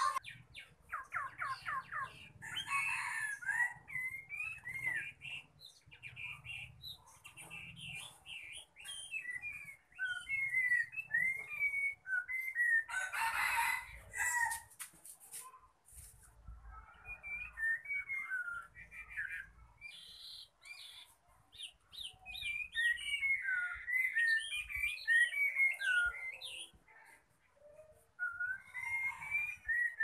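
Songbird singing a varied song of short whistled notes that bend up and down, with a quick run of rapid notes near the start. About thirteen seconds in there is a brief loud burst of noise.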